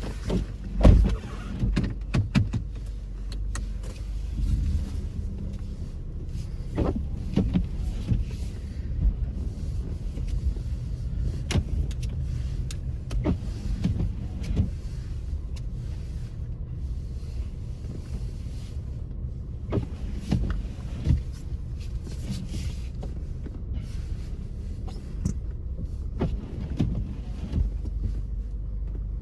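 Car cabin noise while driving on a snow-covered road: a steady low rumble of engine and tyres, with frequent irregular knocks and thumps, the loudest about a second in.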